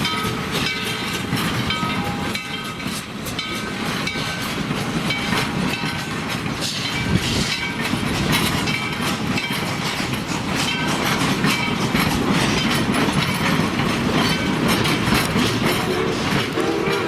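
Railroad cars of a steam-powered train rolling on yard track, with a steady rumble, many clicks from the wheels over rail joints and brief squeals. The sound grows louder. A steam locomotive whistle begins to sound right at the end.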